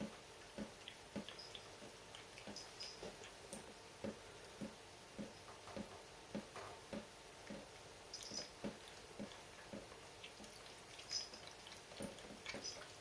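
Dripping tap: water drops landing in the sink at a steady rate of a little under two a second, with a few sharper high clicks near the middle and again later on.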